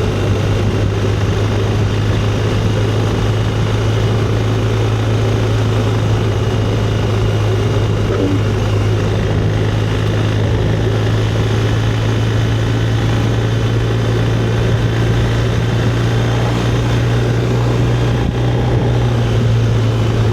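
Motorcycle engine running at a steady cruise, a constant low drone that never changes pitch, under a steady rushing noise.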